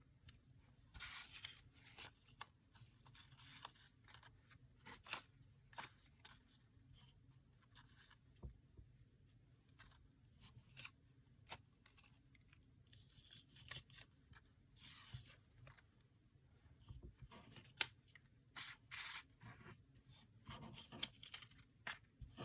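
Paper being handled: sheets and paper cut-outs rustling and sliding in short, irregular bursts, with a few sharp clicks, the loudest about eighteen seconds in.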